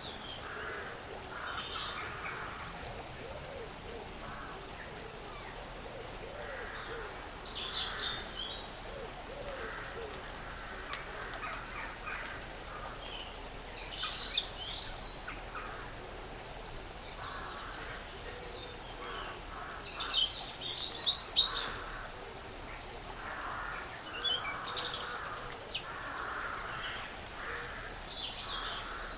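Woodland ambience with small birds chirping and calling in short scattered bursts, busiest about halfway through and again about two-thirds through, over a faint steady background.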